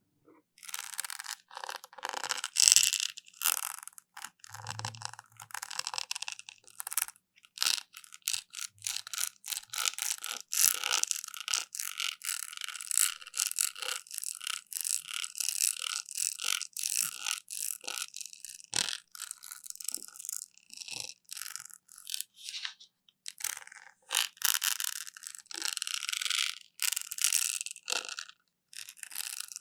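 Close-up ASMR trigger: scratchy rubbing and scraping right against the microphone in quick, dense strokes, with a couple of short pauses.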